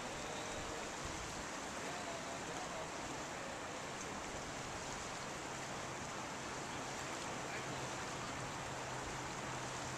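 Steady rushing background noise, even throughout, with a low steady hum coming in about four seconds in.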